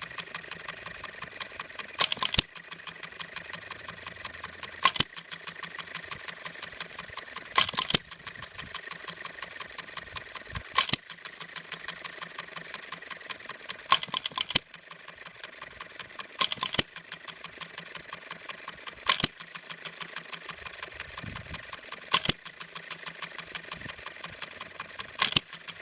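Scale New Holland hit-and-miss engine running on its governor. It fires with a sharp bang every two to three seconds, then coasts between firings to a steady, fast mechanical clicking.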